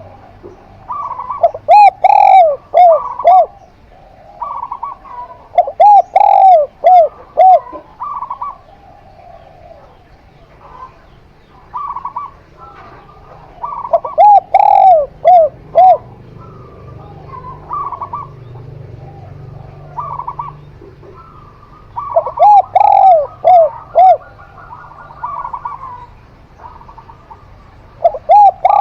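Zebra dove (perkutut) and spotted dove (tekukur) cooing: about five loud phrases of four or five quick, clipped coos, a few seconds apart, with softer single coos from the other bird in between.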